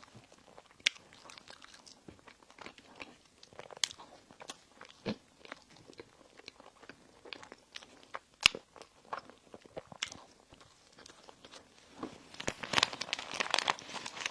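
Close-miked chewing and biting of bakery bread and pastry, with scattered sharp mouth clicks and crunches, and a denser run of crisp crackling near the end.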